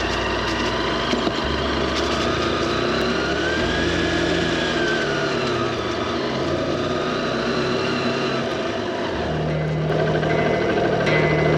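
Honda XR150L dual-sport motorcycle engine running, its pitch rising and then falling over a few seconds, under background music.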